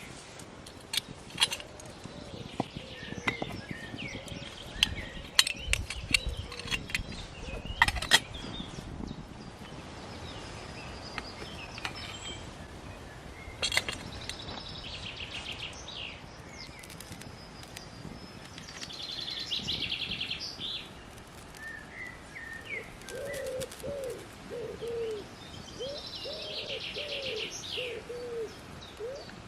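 Small birds singing in high trills, with a run of sharp clicks and knocks through the first half. Near the end a pigeon coos in a series of low, repeated notes.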